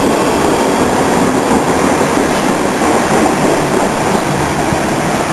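Passenger train pulling out of the station platform, a loud, steady rumble and rush of wheels on the rails.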